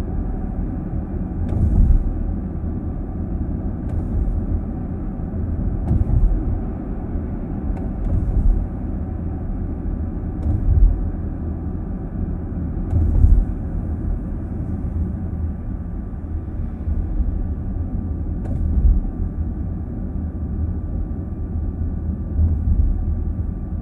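Car cabin road noise while driving: a steady low rumble from the tyres and drivetrain, heard inside the car, with a brief thump every few seconds.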